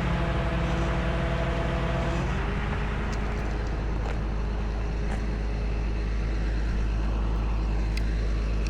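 Tow truck running, with a steady engine and hydraulic hum. Its tones change about two seconds in, and a few light clicks come after.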